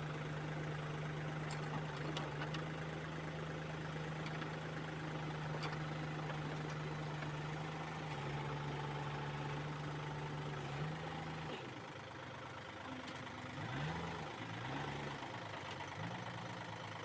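Heavy vehicle engine idling steadily. About two-thirds of the way through its note drops, and near the end it rises and falls a few times in short revs.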